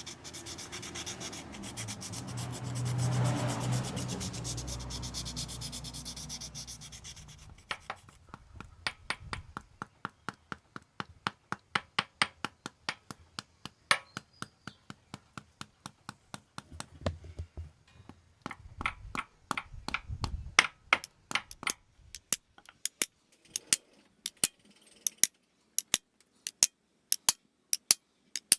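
A rubbing, scraping noise with a low hum for several seconds. Then, from about eight seconds in, a long run of sharp, regular clicks, two or three a second, like a ratchet mechanism being worked.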